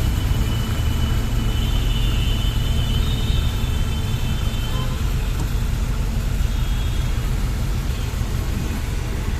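City street traffic: a steady low rumble of passing vehicles, with faint thin high tones in the first few seconds.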